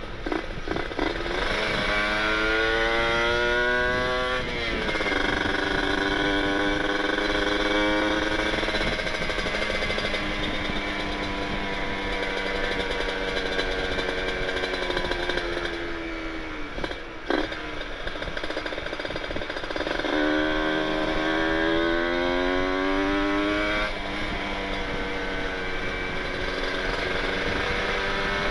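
Kawasaki Ninja 150RR two-stroke single-cylinder engine through an aftermarket Aitech carbon-kevlar expansion-chamber exhaust, under way: the revs climb in a rising note, drop sharply at an upshift, then it cruises with the pitch slowly sinking. About two thirds in it accelerates and shifts up again, and a single sharp click comes just past halfway.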